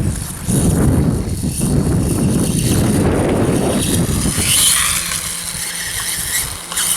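Wind rumbling on the microphone while a radio-controlled electric dirt bike runs; about four and a half seconds in the rumble drops away and a high whirring hiss from the bike's motor and drivetrain takes over.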